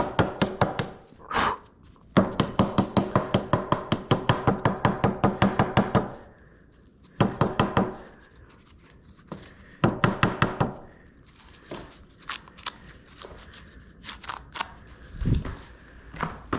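Lawn mower air filter being knocked against something hard to shake the dirt out: rapid, even knocks, about five a second, with a ringing note, in several runs of a second to four seconds. Quieter scattered taps and a low thump follow near the end.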